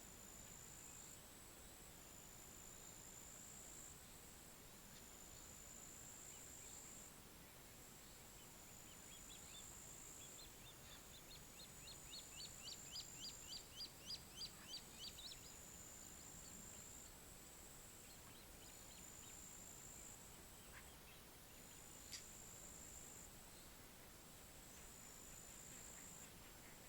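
A songbird singing a few-second series of quick repeated notes that grow louder and then stop, over a high insect trill pulsing on and off. A single short click about 22 seconds in.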